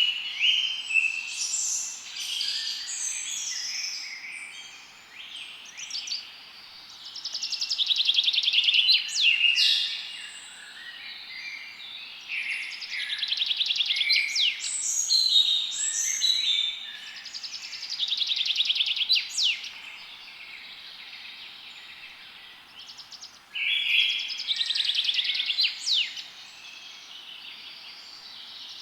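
Several songbirds singing and chirping at once: overlapping trills and quick high notes with sharp whistled sweeps, coming in bouts of louder song between quieter stretches.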